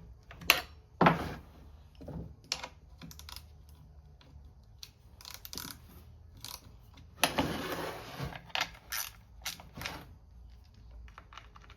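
Hand tools and chainsaw parts being worked while a bolt is tightened: scattered sharp clicks and taps, with a rough scraping rattle lasting about a second around seven seconds in.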